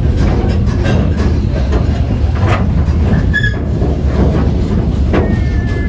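Cedar Point and Lake Erie Railroad train running with a steady low rumble and the clickety-clack of wheels over rail joints. Brief high wheel squeals come about three and a half seconds in and again near the end.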